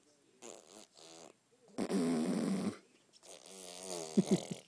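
A person making silly vocal noises: a series of wavering, buzzy voiced bursts, the loudest and longest about two seconds in, with a crackly run near the end.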